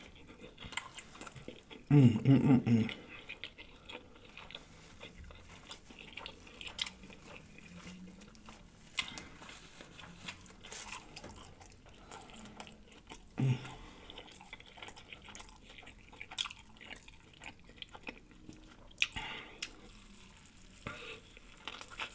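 A person chewing and smacking on food, with wet clicks and crunches throughout. A short loud burst of voice comes about two seconds in, and a smaller one about halfway through.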